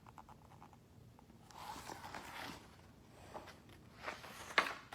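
Faint paper rustling and light handling taps as the pages of a picture book are turned, with a sharper rustle near the end.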